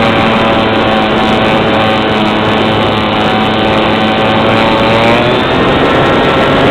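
A motor running steadily with a humming tone that drifts slightly in pitch.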